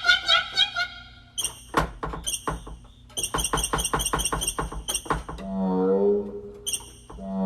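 Cricket chirping in short, high-pitched bursts, repeated many times, alongside a series of sharp clicks. Near the end a low, drawn-out human voice sound comes in, and one more chirp follows it.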